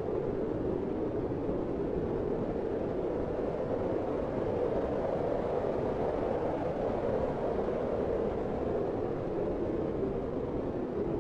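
Blizzard wind blowing steadily, a deep, even rushing with no gusts or breaks.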